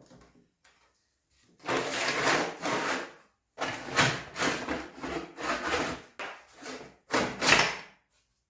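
Three long, harsh scraping strokes, the middle one the longest, with short pauses between them.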